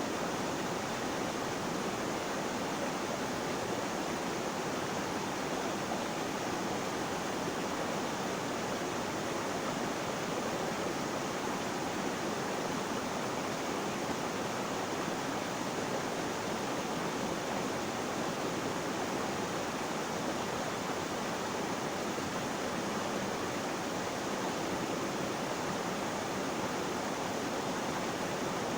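Flowing water rushing steadily in an even, unbroken hiss.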